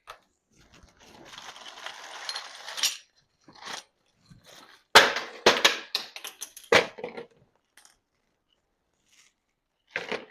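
Metal tools and hardware being handled: a scraping, rustling stretch, then a quick run of sharp metallic clanks and clinks about five seconds in.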